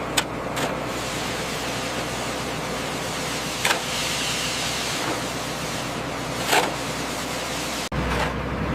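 Heavy road-construction machinery running with a steady engine noise, with a few sharp knocks. Near the end the sound cuts out for an instant and comes back with a stronger low hum.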